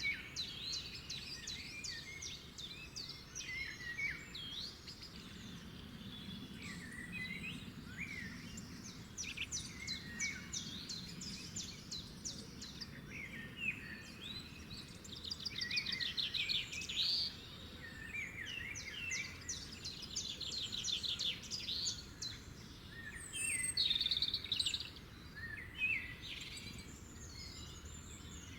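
Several songbirds singing and calling over one another: fast buzzy trills, short chirps and quick up-and-down whistles, over a steady low background hiss.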